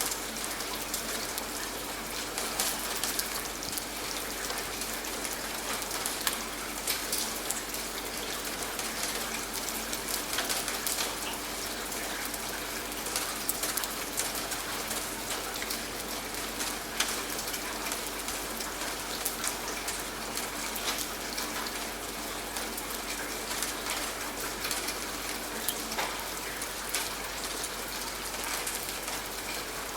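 Steady rain falling, with frequent sharp individual drop hits close by.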